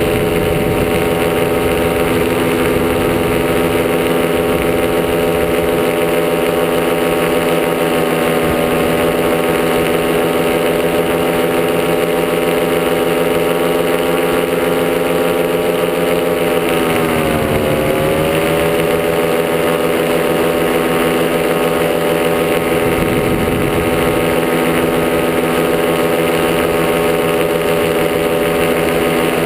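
Miniplane Top80 single-cylinder two-stroke paramotor engine running steadily at cruise. About two-thirds of the way through, the pitch drops briefly as the throttle is eased back, then rises again to the same steady note.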